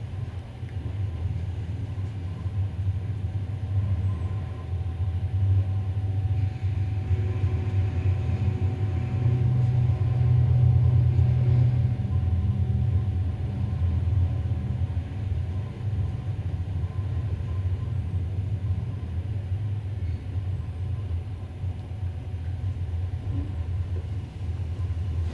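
Low, steady rumble of a moving passenger train heard from inside the carriage, with a faint steady hum above it.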